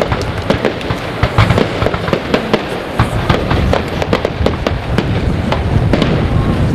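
Aerial fireworks display: a dense run of sharp cracks and pops from bursting shells over a continuous low rumble of booms.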